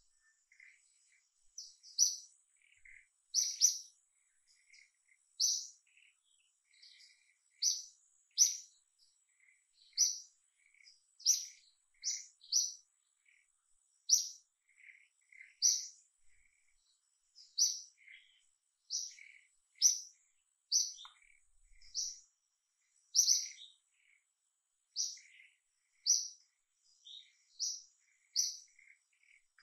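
A bird chirping repeatedly: a short, high chirp about every one to two seconds, with fainter, lower chirps in between.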